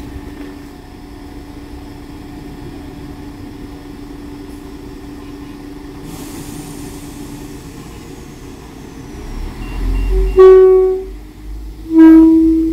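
West Midlands Railway Class 172 Turbostar diesel multiple unit departing a station. Its engines hum steadily while it stands, then build into a low rumble as it pulls away. It sounds two short horn toots near the end, the second a little lower in pitch.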